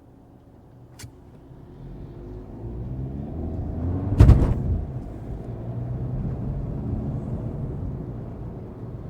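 Volkswagen Golf's 2.0-litre four-cylinder TDI turbodiesel pulling away from a low hum, its engine note rising for about two seconds. A loud, short thump about four seconds in is followed by steady running. There is a faint click about a second in.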